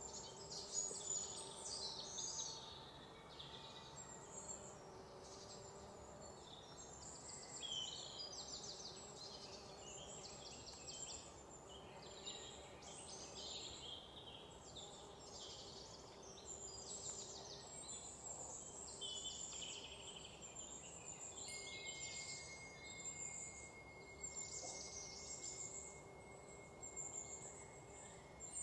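Small birds chirping and twittering continuously, in quick trilled phrases of rapidly repeated notes, over a faint steady background hiss.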